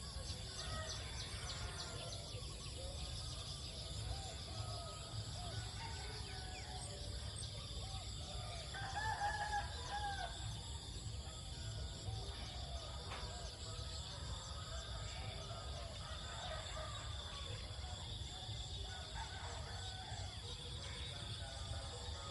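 Village countryside ambience. A rooster crows once, the loudest sound, lasting about a second and a half about nine seconds in. Scattered bird calls run throughout over a steady high insect drone and a low rumble.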